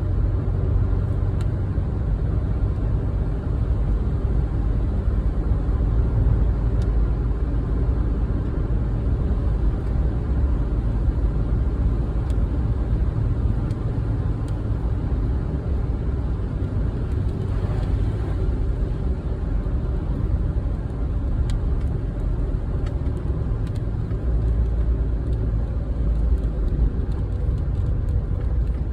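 A car driving, with a steady low rumble of road and engine noise and a few faint ticks scattered through it.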